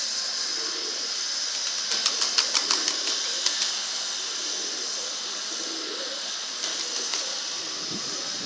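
Domestic pigeons cooing softly over a steady hiss, with a quick run of sharp clicks about two seconds in.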